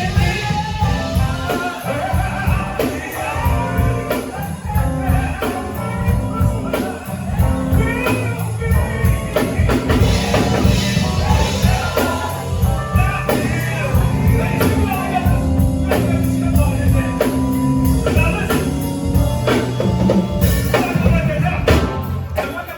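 Live band music with a singer, over a steady drum beat.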